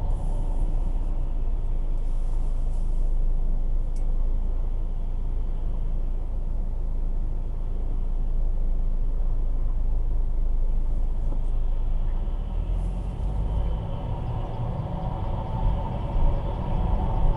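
2010 Ford Focus 1.8 under way: steady road and drivetrain rumble with a whine from the gearbox, which the owner says is absent at a standstill and grows louder with road speed. The whine is strong at first, fades through the middle and comes back strongly near the end.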